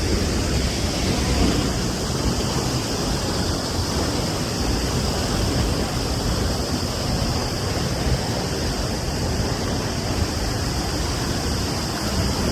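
La Fortuna Waterfall's falling water rushing steadily: an even, unbroken noise.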